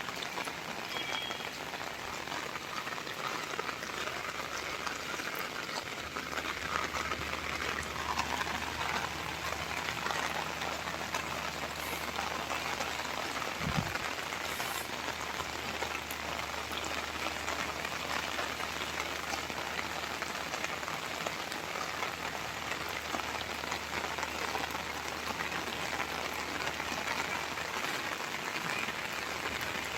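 Steady rain falling, an even, continuous patter of many drops. One low thump stands out about fourteen seconds in.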